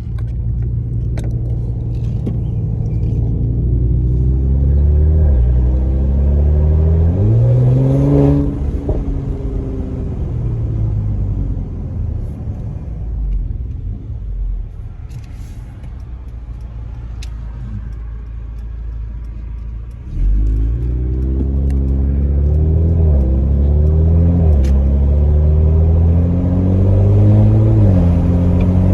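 Mercedes-AMG C43's twin-turbo V6 with factory performance exhaust and Stage 1 tune accelerating hard, engine note rising and dropping back at each upshift. It eases off about 8 seconds in and runs quieter for some ten seconds, with a few sharp cracks, then pulls hard through the gears again from about 20 seconds in.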